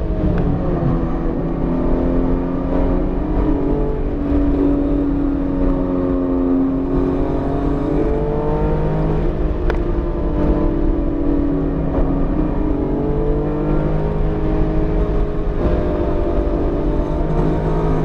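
BMW E46 M3's 3.2-litre inline-six engine driven on track, freshly rebuilt and held below 7,000 rpm for break-in. Its pitch drops sharply right at the start, then rises and falls gently several times, over steady road and wind noise.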